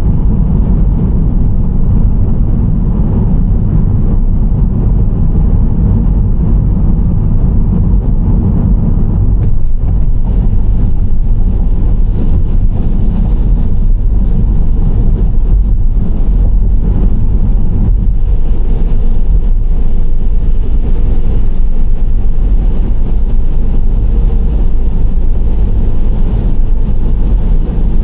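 Nissan Serena C25 minivan driving: steady road and engine noise, heaviest in the low rumble, with a brighter hiss joining in about ten seconds in.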